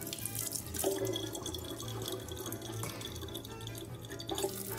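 Water running steadily from a kitchen faucet, splashing onto a cat's head and into a plastic water bottle below, with background music.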